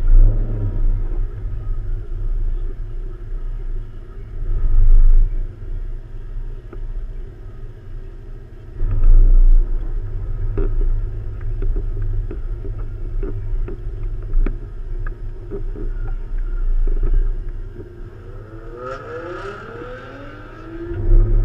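Nissan 350Z's boosted 3.5-litre V6 heard from inside the cabin, running at low speed with a deep rumble. The rumble swells loudly several times, and the revs climb near the end.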